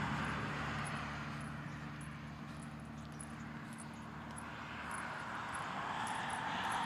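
A steady low engine hum with a wash of noise that thins out, then swells again after about five seconds.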